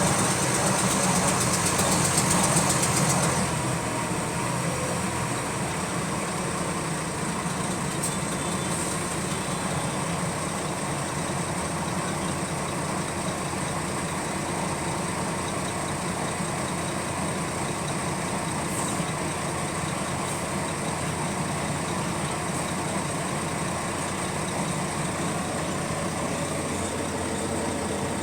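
Diesel engine of a Volvo B9TL double-decker bus running, with a fast repetitive clicking that keeps time with engine speed. It is louder for the first few seconds, then settles to a steadier, quieter idle.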